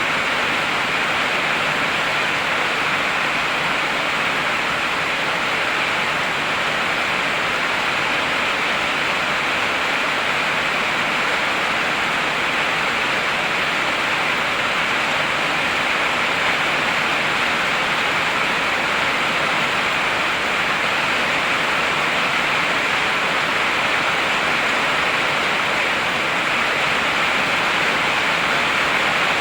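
Heavy rain pouring steadily, a dense, even hiss with no thunder or breaks.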